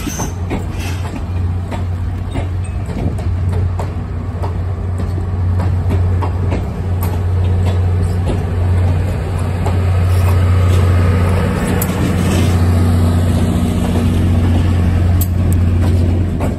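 Passenger train rolling past close by: stainless-steel bi-level coaches with wheels clicking over the rail joints over a steady low hum. About two thirds of the way in it grows louder as the diesel locomotive at the rear of the train draws near, its engine tone passing close near the end.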